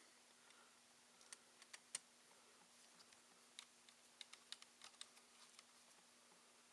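Faint, scattered small clicks and taps of ThinkPad T61 laptop parts being handled during reassembly, irregular and grouped in two short clusters, over a faint steady hum.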